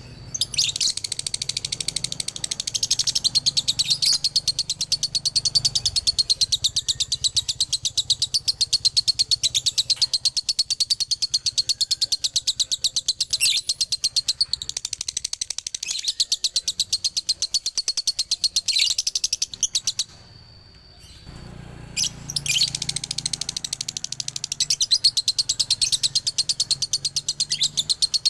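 Male lovebird singing its long, rapid chattering 'dobelan' song, a fast run of sharp high-pitched notes. It breaks off for about a second and a half about two-thirds of the way through, then starts again.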